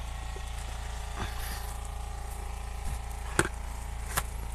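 A few sharp knocks on timber, the two loudest near the end a little under a second apart, over a steady low hum.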